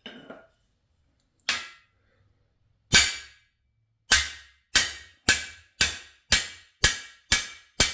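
Hammer blows on a cam bearing installer rod, driving a new cam bearing into an LS6 V8 engine block. There are two single strikes, then a steady run of about two blows a second, each with a short metallic ring.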